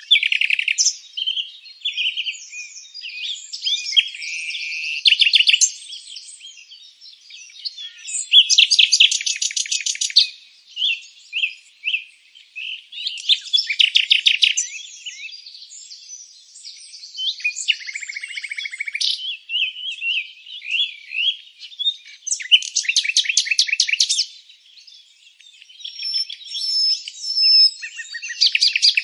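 Several birds chirping and singing together, a steady chorus of short calls and phrases. Fast buzzy trills lasting a second or two stand out every few seconds.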